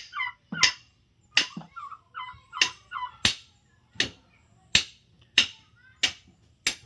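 Turkey gobbling, a warbling call at the start and again about two seconds in, over a steady run of sharp knocks, about three every two seconds.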